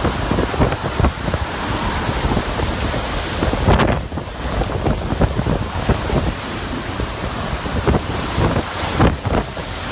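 Strong wind blowing hard and buffeting the microphone in gusts.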